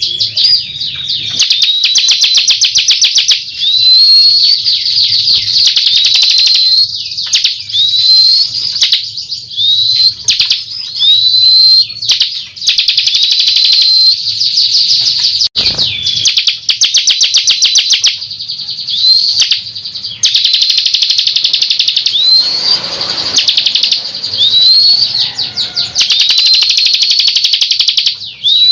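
Ciblek kristal (a prinia) song played as a lure recording: loud, rapid buzzing trills broken by short upward-swept whistled notes, repeating again and again. There is a single sharp click about halfway through.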